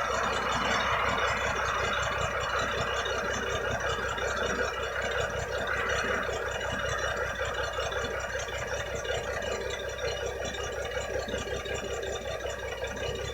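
Diesel engine of a 1975 Kenworth LW924 truck idling steadily.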